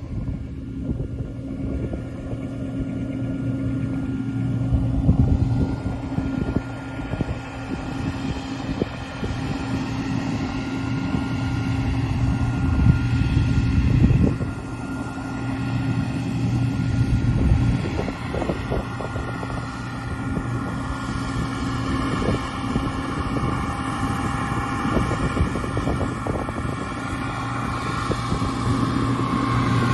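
Combine harvester running steadily under load, a constant engine drone with several steady whining tones from its drives over it, and gusts of wind on the microphone.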